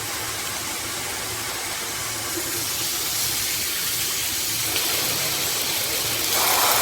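Water hissing from a handheld filtered shower head as it is switched through its spray settings; the spray sound changes and grows louder twice, most plainly near the end.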